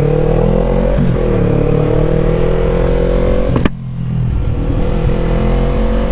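Yamaha MT-03 motorcycle engine running at low, steady revs, its pitch creeping slightly higher, with a sharp click a little past halfway.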